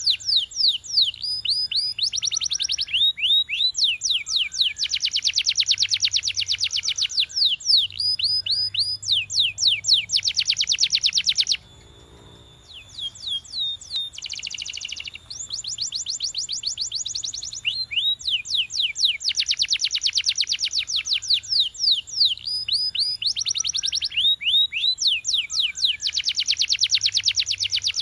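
Canary singing: long, very fast trills alternate with slower runs of falling whistled notes. The song cuts off abruptly about twelve seconds in, then resumes a few seconds later.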